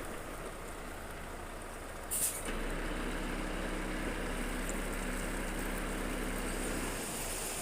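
Heavy diesel construction machinery running steadily, with a short sharp hiss about two seconds in.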